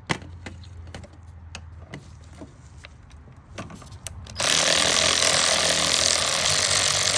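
Scattered metallic clicks and taps of hand tools and loose parts being handled, then about four seconds in a loud, steady rushing noise sets in and dominates.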